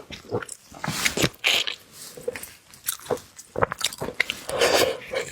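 Close-miked eating of seafood: a run of crisp bites and wet chewing clicks, with longer crackling crunches about one and a half and four and a half seconds in.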